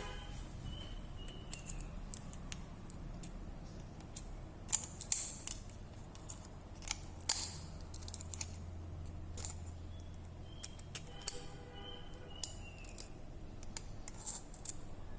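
Small hand tools working on a phone: scattered sharp clicks and snips, irregularly spaced, a few louder ones in the middle.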